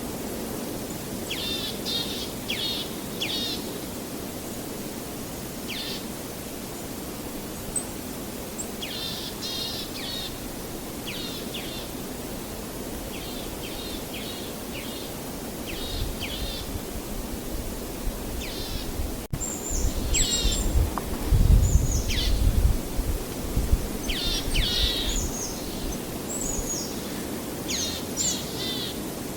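Small songbirds chirping in short clusters of quick, repeated high notes over a steady outdoor wash of noise. About two-thirds of the way through, a low rumble swells up and is the loudest part before it fades.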